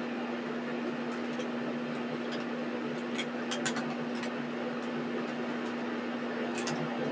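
Steady mechanical hum with one steady pitch over an even hiss, with a few faint clicks about three to four seconds in and again near the end.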